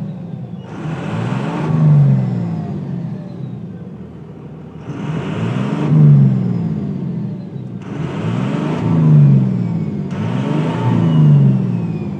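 2002 Cummins 5.9-litre inline-six turbo diesel with compound twin turbochargers being revved four times, the engine note climbing and falling back with a rush of hissing at each rev and a faint falling whistle as each one dies away.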